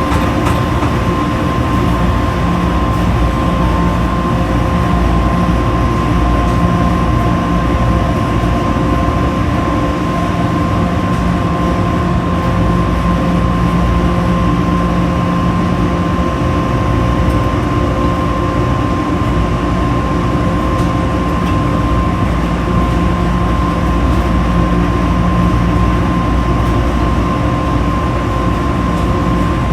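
Washing machines running: a continuous mechanical drone with a steady high whine and a low hum that swells and eases every few seconds.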